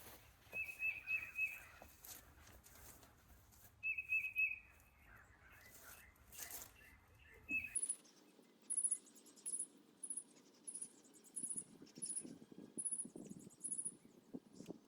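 Birds chirping: a quick run of mid-pitched chirps twice in the first half, then a thin, very high chirp repeating about once or twice a second through the second half.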